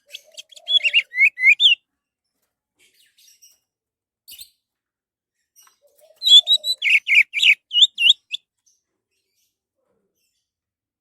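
Orange-headed thrush singing: two bursts of rapid, varied whistled notes, one at the start lasting under two seconds and another about six seconds in lasting about two seconds, with a pause between.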